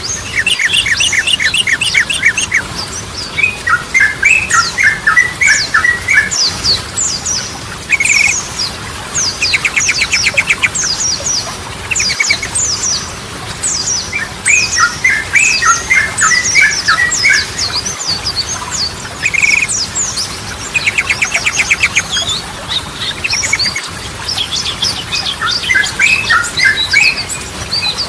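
Sooty-headed bulbul (trucukan) song: a stream of quick, high downward-sweeping notes with bursts of rapid chattering notes lower down, the same sequence coming round about every ten seconds.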